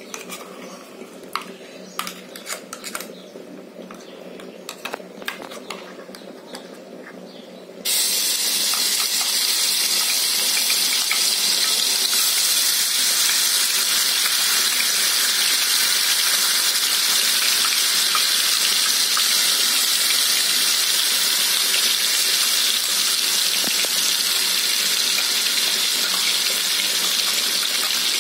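Onion, green chilli, cardamom and clove paste hitting hot oil in an aluminium pressure cooker: a loud, steady sizzle starts suddenly about eight seconds in as the paste begins to fry.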